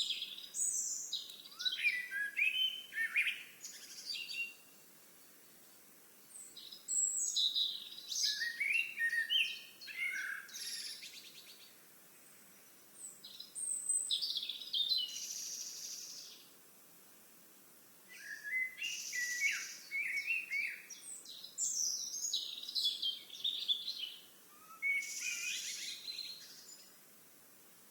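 Songbirds singing in bursts of quick, varied chirping and warbling notes, each burst a few seconds long with short pauses between.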